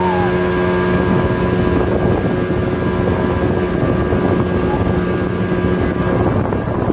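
A steamer's engine running with a steady hum, over a rushing of wind and water; the hum fades out near the end.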